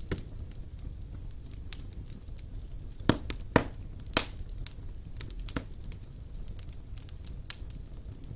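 Wood fire crackling in a fireplace: irregular sharp pops over a low steady rumble, with three louder pops about three to four seconds in.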